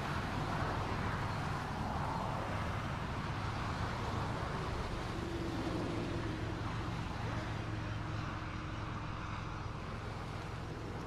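A taxi car's engine running and pulling away from the curb, with a steady low hum that slowly fades toward the end.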